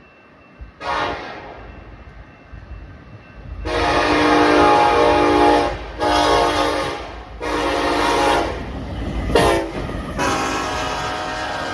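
Air horn of BNSF locomotive 8789 leading a fast intermodal train, sounding a multi-note chord: a brief tap about a second in, then three long blasts, a short one, and a last long blast still going at the end, a grade-crossing sequence. A low rumble of the passing train lies underneath.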